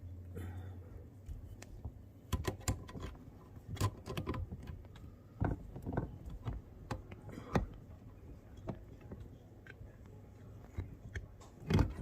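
Irregular clicks and knocks of a hose clamp being worked back onto a dishwasher drain hose, the loudest knock near the end. A low hum stops about a second in.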